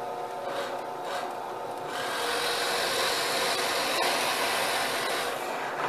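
Power drill running, its bit boring a dowel hole into wood: the motor runs steadily, then about two seconds in the bit bites and a steady cutting hiss of chips carries on until shortly before the end.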